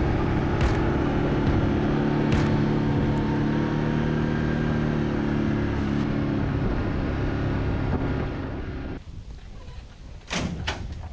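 A vehicle engine running steadily at an even pitch. It fades out about two-thirds of the way through, and a couple of sharp knocks follow near the end.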